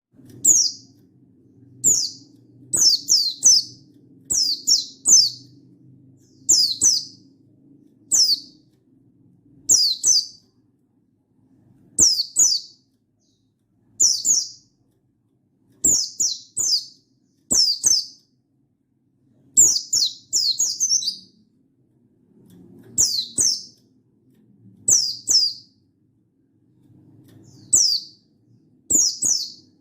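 Buxtoni white-eye (pleci) calling: short, high notes that slide downward, in groups of one to three, repeated about every two seconds.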